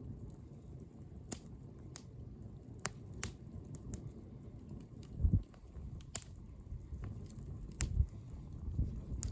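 Wood bonfire crackling: sharp pops and snaps at irregular intervals over a low rumble, with a couple of louder low thumps around the middle and near the end.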